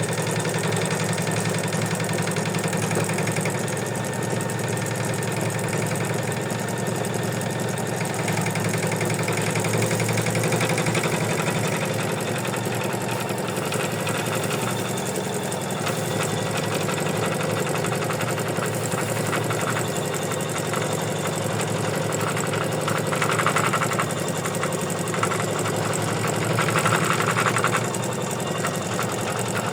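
Embroidery machine stitching steadily, its needle running in a fast even mechanical chatter, with two brief louder stretches near the end. It is sewing the final step, the outline that attaches the felt backing to the front of an in-the-hoop felt cloud.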